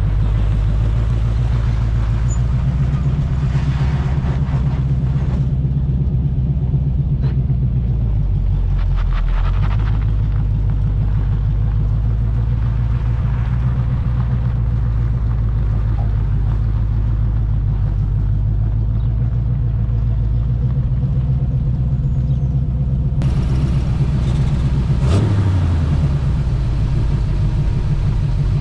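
1980 Chevy K20's 350 small-block V8 running steadily through glasspack exhaust as the truck drives under load. The engine note dips briefly about nine seconds in and again near the end.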